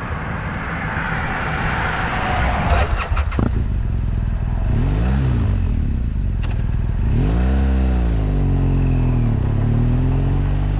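Sport motorcycle engine pulling away and accelerating. A quick run of clicks comes about three seconds in, then the engine revs rise and fall twice.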